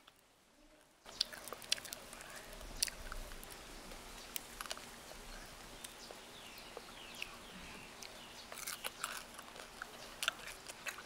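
Deep-fried crickets crunching as they are bitten and chewed, with many sharp crackles; it starts suddenly about a second in.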